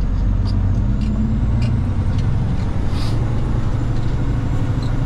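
Peterbilt 379 semi truck heard from inside the cab while driving: steady low engine and road rumble, with a few light clicks and rattles.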